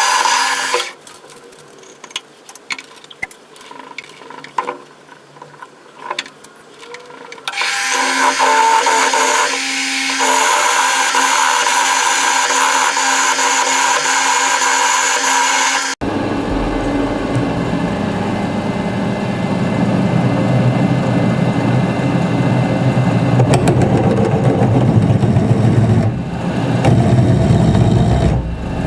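Electric machine tool working steel: a steady whine that stops after about a second, leaving quieter clicks and knocks, and starts again a few seconds later. About halfway through it changes abruptly to a rougher, lower-pitched cutting noise.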